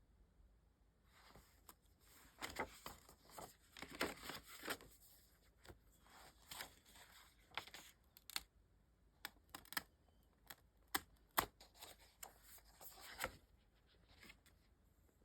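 Faint rustling and crinkling of packaging being handled and opened, broken by many small clicks and taps at irregular intervals, busiest in two stretches.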